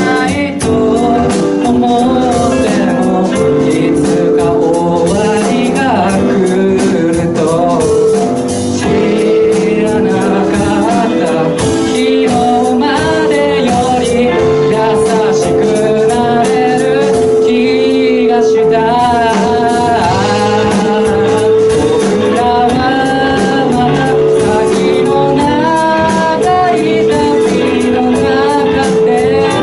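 Live band playing a song with a singer's voice over keyboard and band accompaniment, the singing rising and falling in held, wavering notes.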